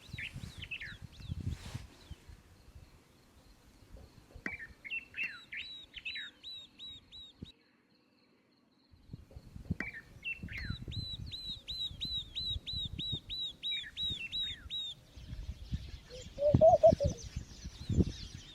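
Small birds singing outdoors: runs of short, evenly repeated high chirps, about four or five a second, over a low rumble. The sound drops out for about a second midway, and a brief louder, lower-pitched call comes near the end.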